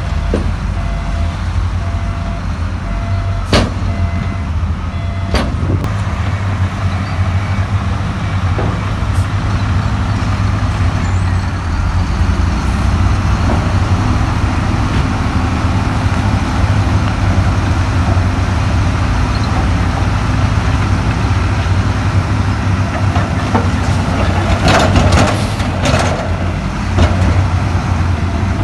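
Heavy earthmoving machinery's diesel engine running steadily, with sharp knocks twice a few seconds in and a cluster of knocks near the end.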